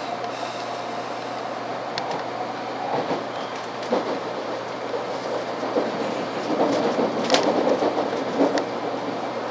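Hikari Rail Star 700 Series Shinkansen train in motion: a steady rumble with scattered clicks and knocks, growing louder about six seconds in.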